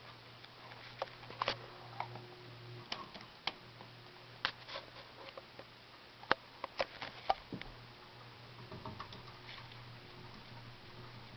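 Heritage Lancaster ceiling fan's motor humming steadily, with irregular sharp clicks and ticks scattered over it, thickest in the first two-thirds.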